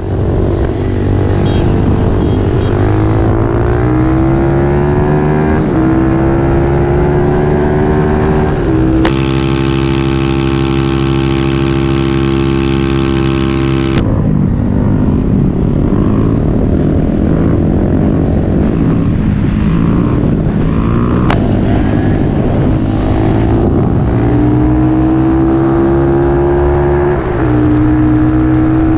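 Small single-cylinder mini bike engine accelerating hard through the gears. The pitch climbs, then drops at each upshift. Around a third of the way in, a hard cut brings about five seconds of a steady, even engine note, and then the climbing and shifting resumes.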